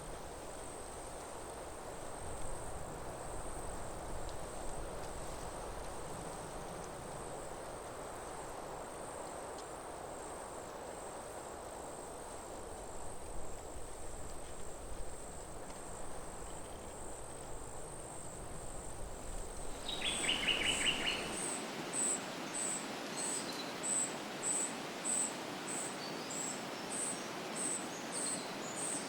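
Forest ambience: a steady high insect trill over a rushing wind noise. About twenty seconds in, the wind noise thins, a bird gives a short call, and the insect sound turns to regular chirps, about one and a half a second.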